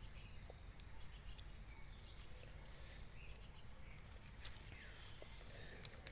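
Faint, steady high-pitched chirring of insects such as crickets over a low rumble, with a few small clicks.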